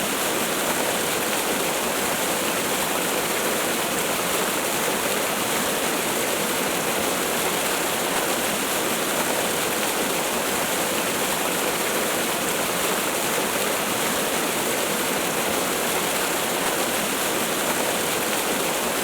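Waterfall: falling water rushing steadily, an even hiss-like noise with no breaks or changes.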